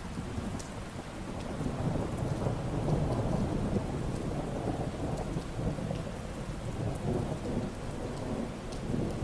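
Steady rain with low rolling thunder that swells a couple of seconds in and rumbles on, with scattered drops ticking above it.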